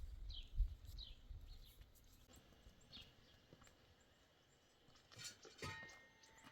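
A bird chirping: a few short, high chirps, each falling in pitch, spaced a second or two apart. A low rumble sits under the first second, and a cluster of clicks with a short tone comes near the end.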